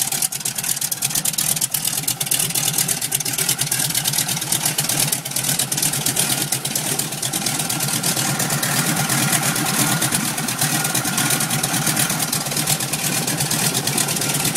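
Nine-cylinder radial aircraft engine running steadily, a rapid even stream of firing pulses, with a faint steady whine joining about six seconds in.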